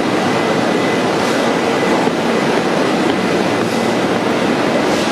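London Underground District line train on the line at the platform, a steady loud rumble of rail and train noise with a faint high steady tone through it.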